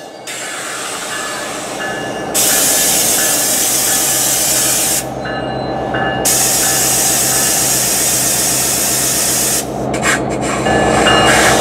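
New Jersey Transit passenger train standing at the platform, its equipment humming steadily under loud bursts of air hissing. The hiss starts and stops abruptly in three long stretches, then turns choppy near the end.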